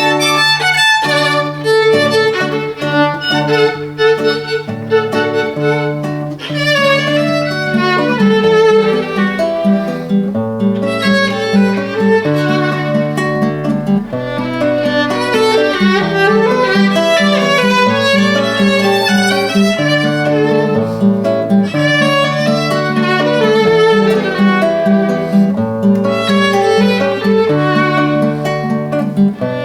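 Violin playing a lively minuet melody over a steady, rhythmic chordal accompaniment from a second instrument.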